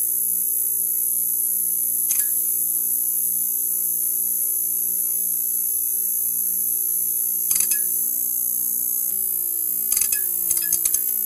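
Neon sign buzzing: a steady electrical hum under a high whine and hiss, with short bursts of crackling clicks about two seconds in, around eight seconds, and a cluster near the end.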